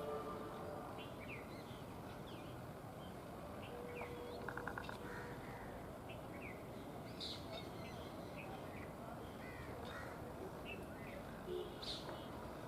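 Outdoor bird chorus: several birds give short chirps and harsh caw-like calls over a steady background hiss, with a brief rapid rattling call about four seconds in.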